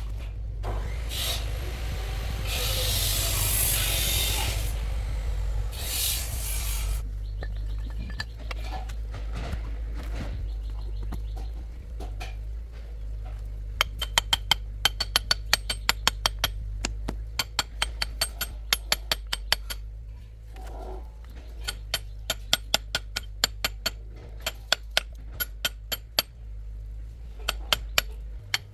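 Metal workshop handwork: a few seconds of hissing or rasping, then a long run of sharp metallic clinks and taps that ring as metal parts strike each other, with a steady low hum underneath.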